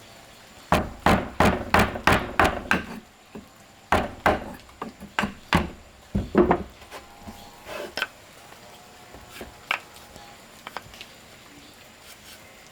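A tool striking wood in a fast run of about eight sharp knocks, then shorter groups of knocks, then a few faint taps.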